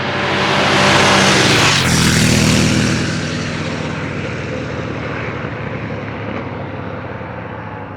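Motorcycle engine passing close by, loudest about a second or two in, its pitch dropping as it goes past, then running on steadily.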